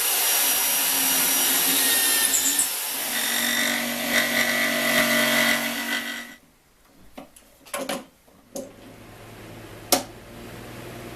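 Electric power tool running on wood for about six seconds, then stopping suddenly. A few sharp knocks follow, then a steady low hum.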